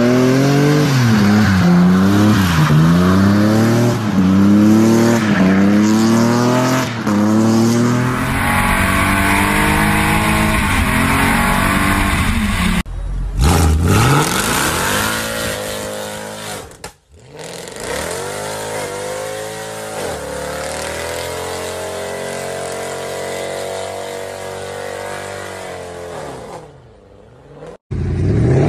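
Mercedes-AMG sedan engines revving hard. First the engine pitch rises and falls over and over, about once a second, as a car drifts. Then come several short clips of engines revving and running, broken by abrupt cuts.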